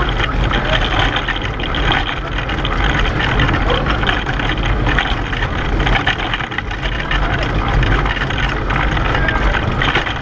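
Pedal car running on the road, heard from on board: a loud, steady rumble with constant rattling from the wheels and frame, and wind buffeting the microphone.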